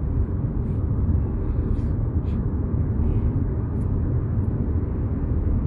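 Steady low drone of road and engine noise inside the cabin of a moving taxi, with a few faint clicks.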